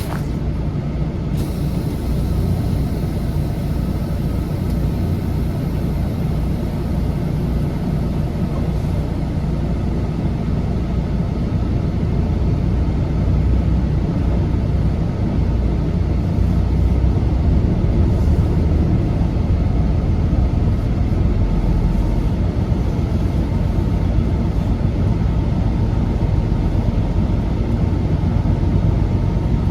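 Semi truck on the move: a steady low engine drone and road noise, a little louder about halfway through.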